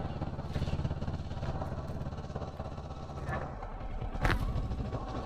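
Kawasaki Versys 650's parallel-twin engine running at a steady cruise. About three seconds in its note drops and quietens, and a brief click sounds about a second later.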